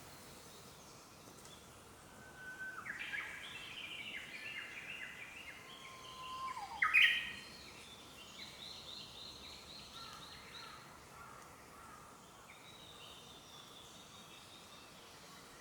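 Wild songbirds singing in a forest: a run of chirping, whistled phrases, with one loud, sharp call about seven seconds in, and softer song near the end.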